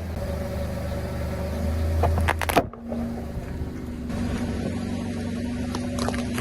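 Car engine running steadily, with a quick cluster of sharp cracks about two and a half seconds in as objects are crushed under a tyre. The sound then cuts abruptly to another steady engine hum with a droning tone.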